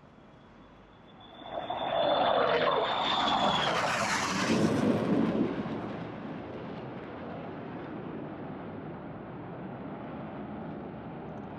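Fighter jet flying low and fast overhead: its noise builds quickly about a second and a half in, is loudest for about four seconds, drops in pitch as it passes, then trails off into a steady distant rumble.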